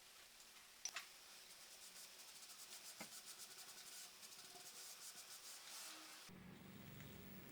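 Fast, even back-and-forth rubbing strokes on wood, with a couple of light knocks about a second in, as the wood of an old cash-register drawer is worked during staining. About six seconds in the rubbing stops abruptly and a faint low hum takes over.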